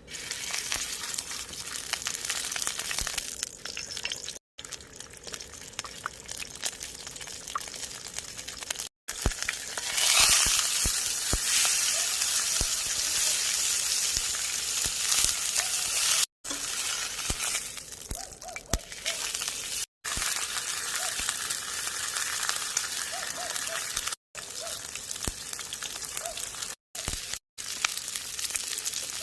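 Food sizzling and frying in a pan over a campfire, a steady hiss full of small crackles that is louder for a few seconds about a third of the way in. It breaks off into several brief silences.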